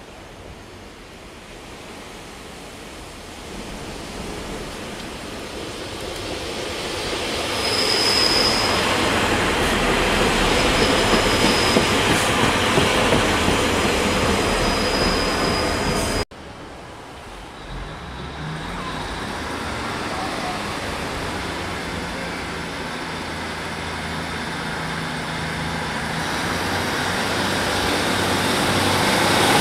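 A diesel multiple unit passes close by, its wheel and rail noise building to a loud steady rush, with a brief high wheel squeal a few times. After a sudden cut about halfway through, the underfloor diesel engine of a Class 150 Sprinter unit runs and grows louder as the unit pulls away.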